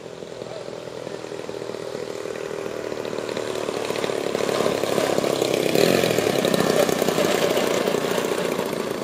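Two-stroke 120cc gas engine of a large RC aerobatic plane running at speed in flight, growing louder to a peak about six seconds in and then fading as the plane passes by.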